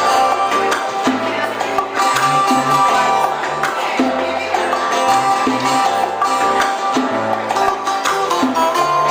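Live old-school Cuban music: plucked strings over a bass line that repeats in a steady pattern.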